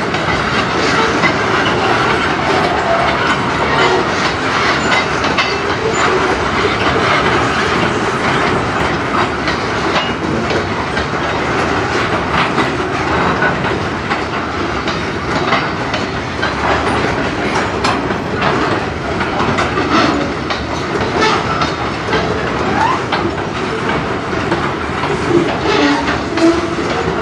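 Freight train of covered hopper cars rolling past: a steady rumble of steel wheels on rail with irregular clicks as the wheels pass over rail joints. A few short wheel squeals come in the second half.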